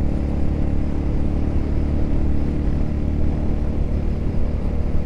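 Motorcycle engine running at a steady speed while riding, with a low rumble and wind noise over the camera's microphone.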